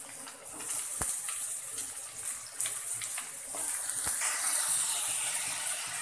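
Sliced green capsicum sizzling in hot oil in a kadai, the sizzle growing louder from about halfway through. Two sharp knocks of the spatula against the pan, about a second in and again near four seconds.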